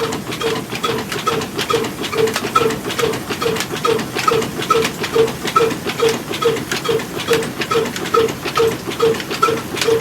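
Diesel engine running steadily under load while driving a chakki flour mill, with an even beat of about two and a half pulses a second. Each pulse has a short pitched blip, and sharp clicks run through it.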